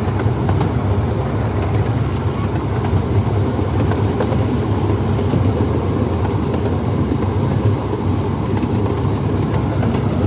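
Amusement-park ride-on train running steadily along its track, with a continuous low rumble of wheels and running gear, heard from aboard the train.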